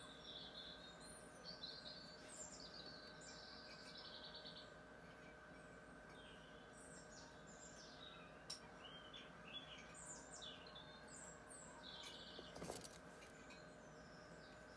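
Wild birds chirping and singing faintly, many short calls and trills throughout, over a faint steady hum. There is a single sharp click about eight and a half seconds in, and a brief louder rustle about three-quarters of the way through.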